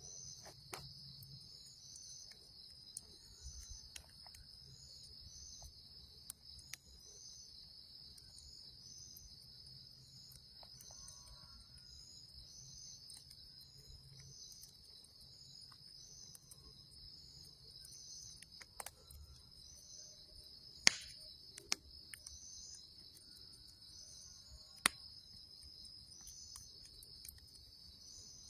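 A night chorus of crickets: a steady high trill with a chirp repeating about every three-quarters of a second. A few sharp pops from the campfire break through, the loudest two about two-thirds of the way in.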